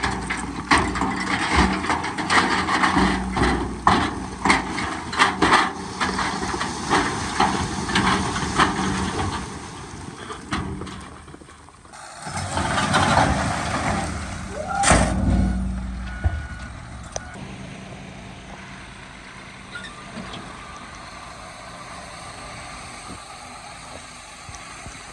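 Heavy diesel earthmoving machinery running, with many sharp clanks and rattles over the engine for about the first ten seconds. A loud rushing surge follows midway, ending in a sharp hiss like an air-brake release. After that the engine idles more quietly and steadily.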